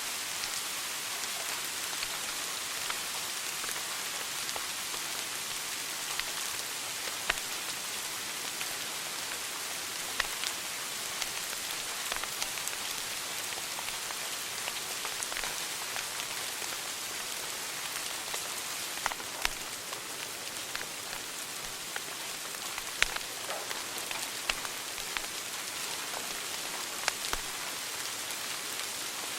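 Wood fire burning in a fireplace: a steady hiss with scattered sharp crackles and pops.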